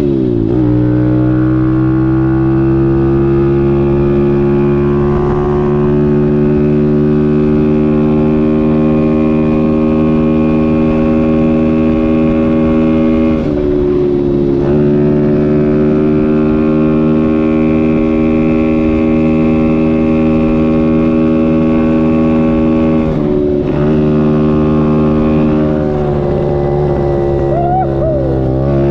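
Dirt bike engine running at a steady high pitch under throttle. The pitch dips sharply and climbs back at the start, about 13 seconds in, about 23 seconds in and again near the end.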